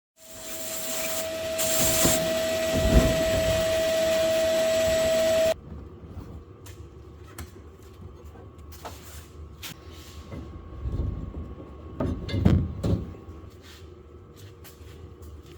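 Sandblasting the fork lowers: a loud hiss of compressed air and grit with a steady whistle, cutting off suddenly about five seconds in. It is followed by quieter clicks and a couple of thumps near the end.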